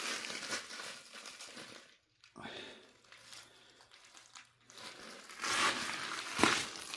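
Footsteps crunching on loose ground, uneven and irregular, heavier near the start and again from about five seconds in, with a brief dropout just after two seconds.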